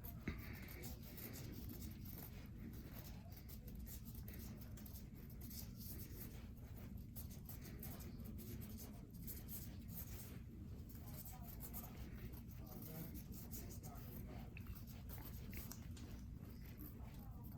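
Steady, scratchy rasping of hard, dry callused skin being worn down on the foot, over a low steady hum.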